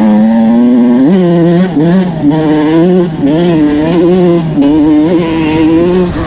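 Small two-stroke motocross bike engine being ridden hard. The revs hold steady for about a second, then rise and fall in quick repeated blips as the throttle is worked.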